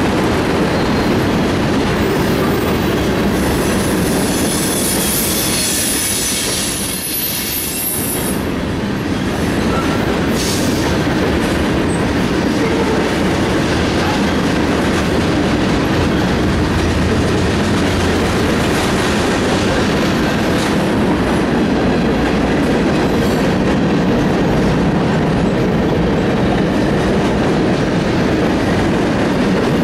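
Freight cars of a passing train, tank cars, covered hoppers and boxcars, rolling by close at hand with a steady rumble of wheels on rail. A high-pitched wheel squeal joins in from about three seconds in and dies away around eight seconds.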